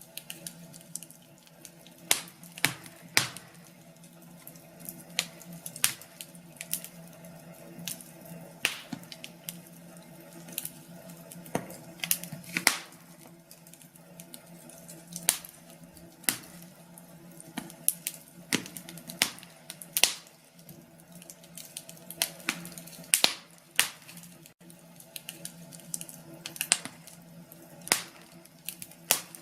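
Wood fire in a fireplace crackling, with sharp pops coming irregularly, about one a second, over a steady low background.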